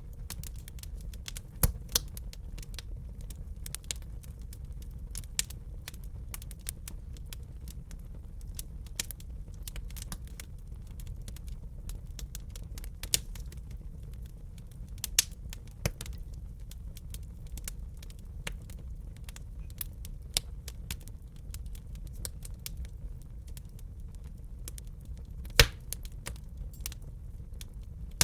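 Wood fire crackling: irregular sharp pops and snaps, a few much louder than the rest (the loudest near the end), over a steady low rumble of the burning fire.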